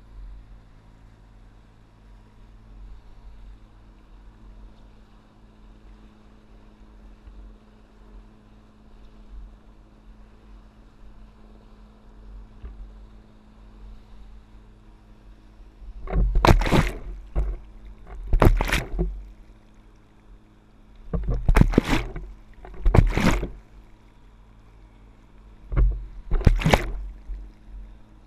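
Water splashing and paddle strokes as a stand-up paddleboard rides a boat's wake: a low steady hum for the first half, then six loud, short splashes about every two seconds.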